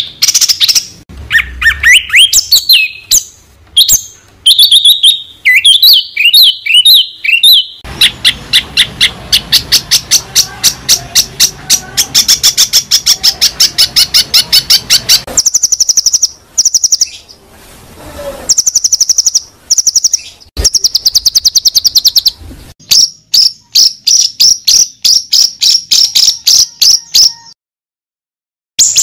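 Loud songbird tutor recording: varied high whistled phrases, then a long fast, even run of sharp chirps, then high trilling phrases, with sudden switches between them and a short break near the end.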